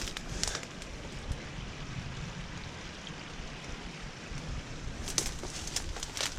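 Rustling and crackling of someone pushing on foot through dense, spiky undergrowth, with sharper snaps about half a second in and again near the end, over a steady low background noise.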